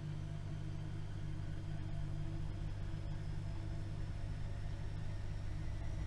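AEG Öko-Lavamat washing machine running, its drive motor a replacement: a steady low hum with a faint whine slowly rising in pitch.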